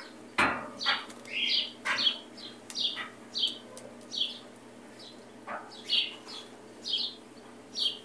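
Small birds chirping in short, high calls that bend in pitch, repeated irregularly throughout. A single sharp click comes about half a second in.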